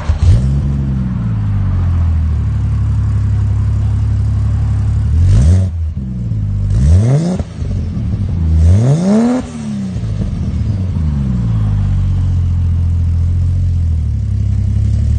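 Ford FG Falcon XR6 Turbo's turbocharged inline six, breathing through a custom 3.5-inch mandrel-bent steel exhaust with a 4-inch dump pipe, high-flow cat and two stainless mufflers. It flares just after starting and settles to a steady idle. Then it is blipped three times, at about 5, 7 and 9 seconds, each rev rising and falling quickly before it returns to idle.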